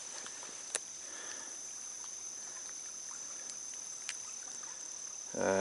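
Crickets trilling in a steady high drone over the soft rush of stream water, with two faint clicks. A man's short voiced hum comes in near the end.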